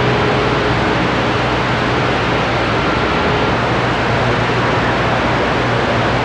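CB radio receiver on the 11-metre band hissing with steady static, with faint steady whistles from distant carriers heterodyning under the noise.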